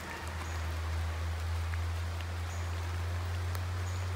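Rain falling through rainforest foliage: an even hiss of drips with scattered small ticks, over a steady low rumble.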